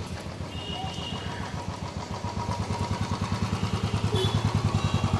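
Motorcycle engine running with a steady low pulsing beat that grows louder over the second half.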